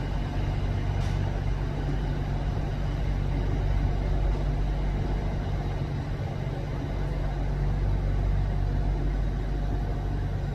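Inside an SRT Red Line electric commuter train car while it runs: a steady rumble of the train in motion with a low hum.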